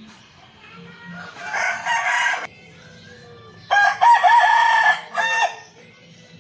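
Rooster crowing twice, the second crow louder and longer with a short last note.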